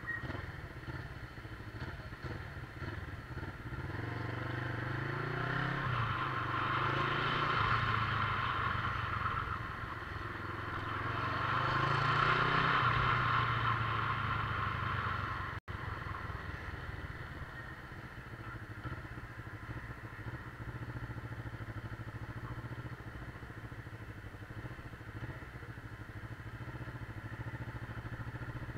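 Motorcycle engine running under way; the revs climb twice, about five and eleven seconds in, then hold steady. The sound drops out for an instant about halfway through.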